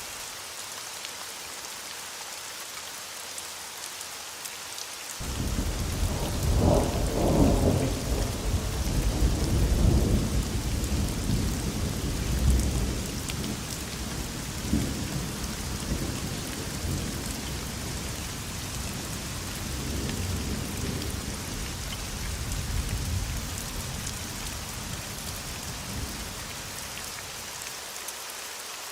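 Steady rain hiss, with a thunderclap breaking in about five seconds in. The thunder rolls on in several swells for some twenty seconds and dies away near the end.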